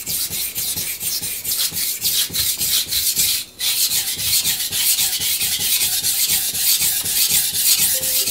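Knife blade being stroked back and forth on a wet, porous vitrified Miyagoshi whetstone: quick scraping strokes, several a second, with a short break about three and a half seconds in.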